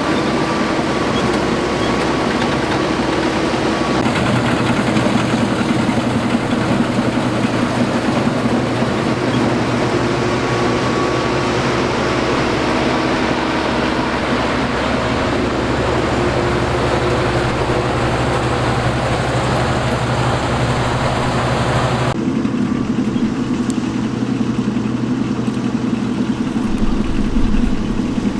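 Combine harvester running steadily with a loud engine and machinery noise. The sound changes abruptly twice, about four seconds in and again about 22 seconds in.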